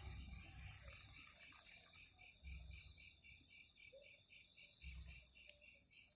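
Night insects, crickets by their sound, chirping in a high, steady pulse of about five beats a second, with a few faint low thumps underneath.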